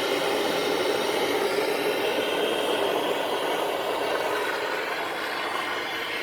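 Brazing torch flame hissing steadily while silver-brazing an iron part to copper, easing slightly toward the end.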